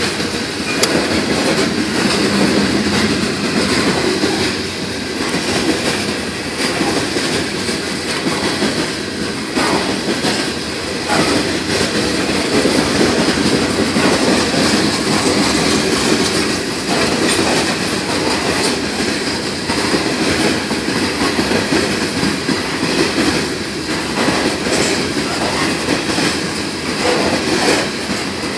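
Freight train of open-top hopper cars rolling past close by: a loud, steady rumble of steel wheels on rail, with irregular clicks as the wheels pass over the track.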